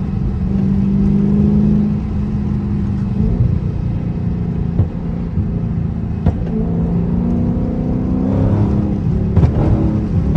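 Dodge Charger's 392 HEMI V8 under way, its engine note shifting with the throttle. Near the end come several sharp exhaust pops and crackles from its pop tune.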